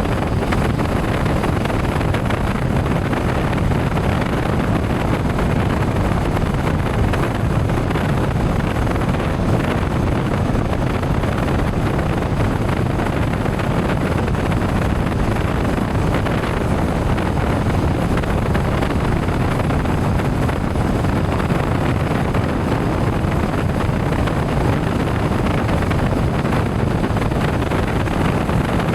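Steady rush of wind over the microphone and road noise from a motorcycle riding at speed, with no change in pace.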